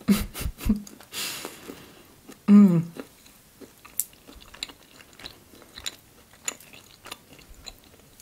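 Close-up mouth sounds of chewing a bite of churchkhela: wet smacks and small crunches of the nuts inside, thickest in the first second, then sparser. A short hummed voice sound comes about two and a half seconds in.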